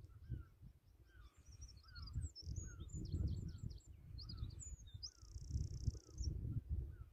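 Small birds singing: a short falling chirp repeats about twice a second, and from about a second in a rapid, high twittering song runs, ending in a buzzy trill near the end. Under it all is a low, gusty rumble.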